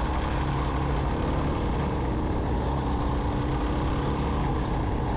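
Suzuki DR-Z400S single-cylinder four-stroke engine running at a steady, unchanging pitch while the bike is ridden, with a constant noisy hiss over it.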